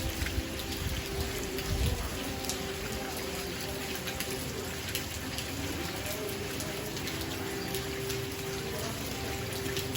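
Rain falling steadily, with many sharp ticks of individual drops striking a surface.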